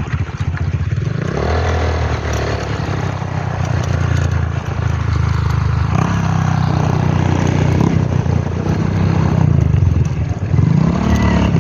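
A vehicle engine running steadily while driving over a rough road, with rattling and scraping over the top.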